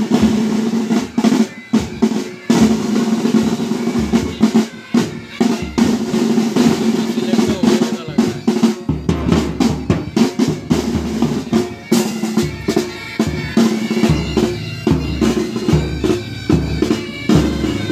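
Pipe band drum corps playing: side (snare) drums in fast continuous rolls and rudiments, with bass drum beats joining in for stretches.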